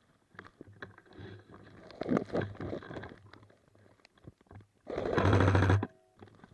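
Airsoft gun firing a short full-auto burst of under a second about five seconds in, a fast even rattle that stops abruptly. Before it come scattered knocks and rustling, with a louder cluster about two seconds in.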